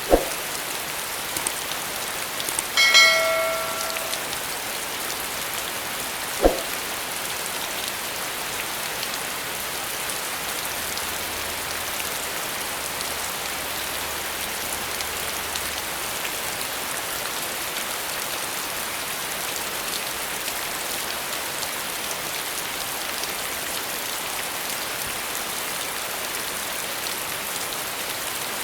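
Steady rain falling on surfaces, an even hiss of many drops. Two sharp knocks, one at the very start and one about six and a half seconds in. About three seconds in comes one brief ringing tone that fades within about a second.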